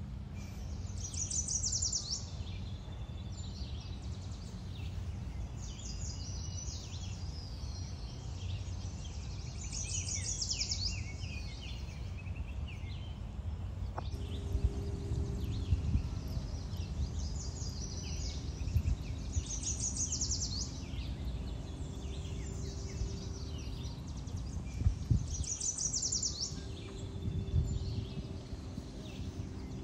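Birds calling in short high phrases that recur every few seconds, over a steady low outdoor rumble. A faint steady hum comes in about halfway through.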